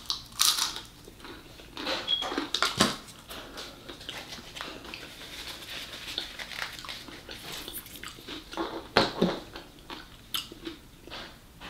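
Close-miked chewing and mouth sounds of eating a fried cream cheese wonton, mixed with scattered clicks and knocks, the loudest about nine seconds in.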